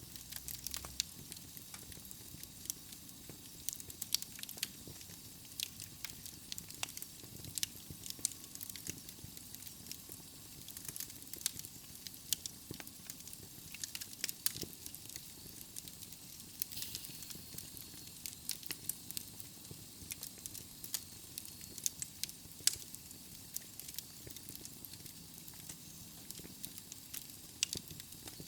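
Wood fire burning in a fireplace: logs crackling and popping in irregular sharp snaps over a steady soft hiss.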